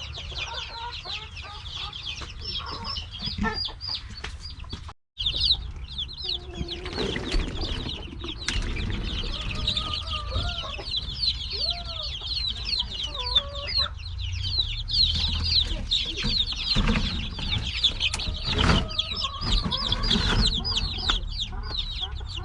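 Many young native chicks peeping nonstop in high, shrill calls, with a few lower clucking calls in the middle. The sound breaks off for an instant about five seconds in.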